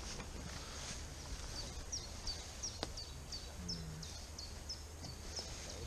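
A bird calling in the woods: a run of short, sharp notes that fall in pitch, repeated about three times a second for a few seconds, over a steady low outdoor rumble. A single click sounds about three seconds in.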